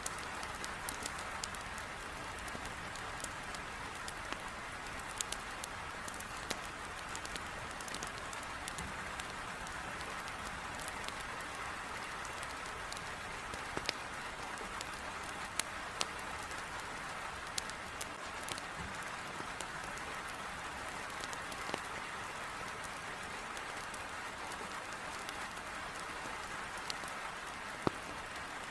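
Heavy rain pelting a window in a steady hiss, with the sharp crackles and pops of burning firewood in a fireplace scattered throughout.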